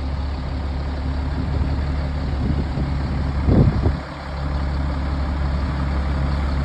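Diesel engine of an LMTV truck running steadily as it is driven up onto a trailer, with a brief louder rumble about three and a half seconds in.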